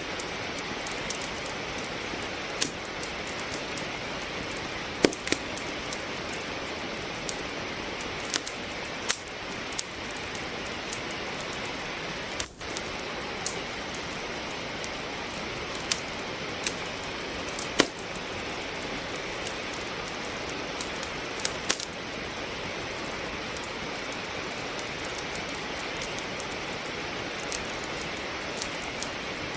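Steady rain with a wood fire crackling: a continuous hiss of rainfall, with sharp pops from burning logs at irregular intervals.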